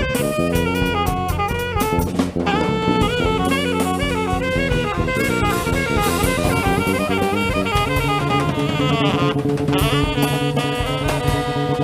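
Jazz band playing, with a saxophone carrying the melody over a drum kit and changing low bass notes.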